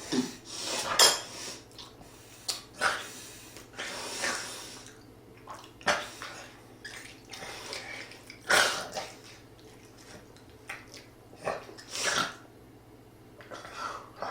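A person eating pork-bone soup close to the microphone: irregular wet slurps and mouth noises, about a dozen over the stretch, with some clatter of tableware.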